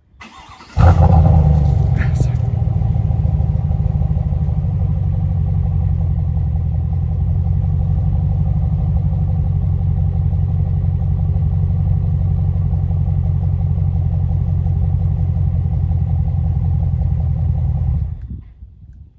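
The 6.2-litre V8 of a 2021 Chevrolet Silverado, exhaust muffler deleted with the flapper valve still in, comes in suddenly about a second in and runs at a steady, even speed, then drops away shortly before the end.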